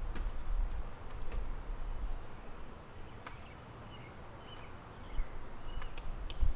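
Birds chirping, short slurred notes several times, with a few sharp clicks and a low rumble.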